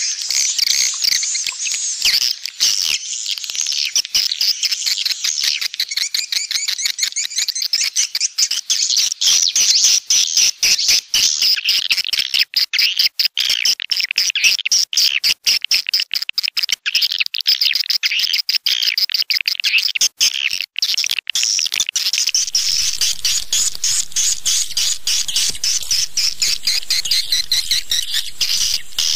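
Edible-nest swiftlet calls: a dense, unbroken chorus of rapid high chirps and twitters laced with quick clicks, the call sound played to lure swiftlets into a nesting house.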